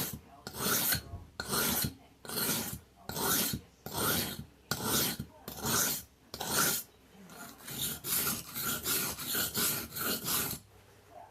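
Karambit knife blade stroked back and forth across a wet whetstone, making a regular series of rasping strokes. They come about one a second at first, then turn quicker and shorter for the last few seconds, and stop shortly before the end.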